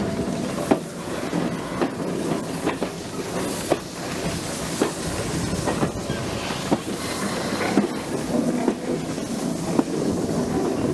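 Passenger train running along the line: a steady rumble from the carriages with irregular clicks and knocks of the wheels over rail joints.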